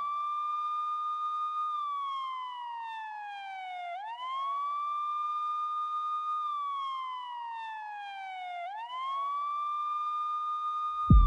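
Police siren wailing in slow cycles: each one rises quickly, holds high, then falls slowly, about every four and a half seconds. A sudden low thump comes at the very end.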